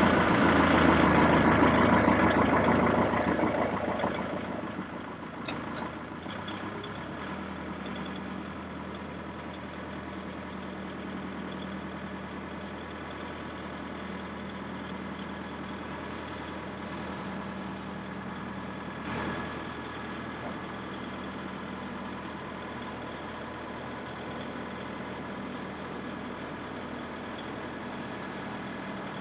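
A louder stretch dies away over the first four seconds or so, leaving a vehicle engine running steadily.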